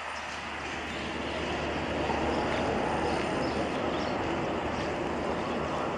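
Steady drone and rumble of a departing train hauled by a WDG-3A diesel locomotive, engine and rolling coaches together, growing a little louder about two seconds in.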